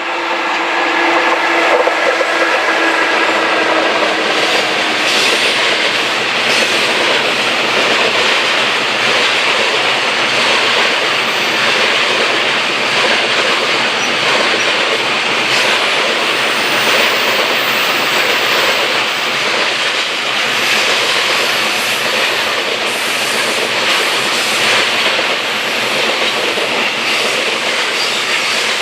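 A freight train hauled by a JR EF66 electric locomotive passes at speed. A humming tone from the locomotive sounds over the first few seconds and fades. A long, steady roar of freight wagons rolling by follows, with wheels clacking over the rail joints.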